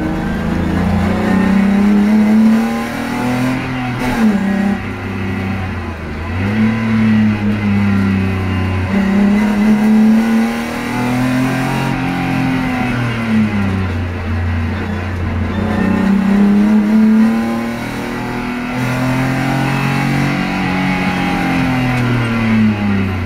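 BMW M50 straight-six in an E30 325i, heard from inside the cabin on track, its revs climbing under acceleration and dropping sharply several times between gears and corners.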